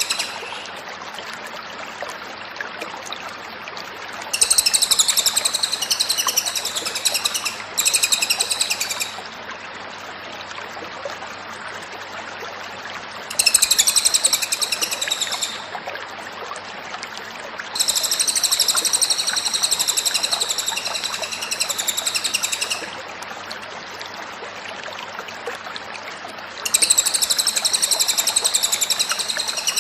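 Cililin songbird singing in bouts of rapid, high-pitched chattering song, each lasting one to five seconds, with pauses between them. A steady hiss sits underneath throughout.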